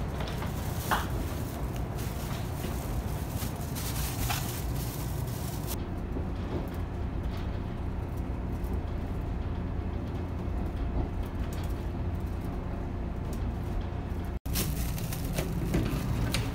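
Diesel railcar running along the track, heard from inside the passenger cabin: a steady low engine and wheel rumble, with rattles and clatter during the first few seconds that then die down. The sound cuts out for an instant near the end, followed by a few knocks.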